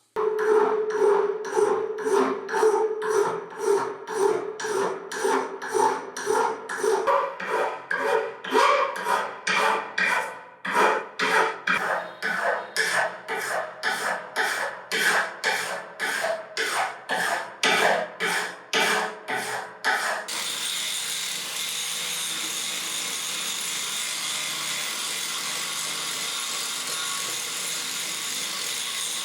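Hand file stroking back and forth on the steel hammer face of a concrete vibrator, about two strokes a second. About twenty seconds in the strokes stop and a steady hiss takes over.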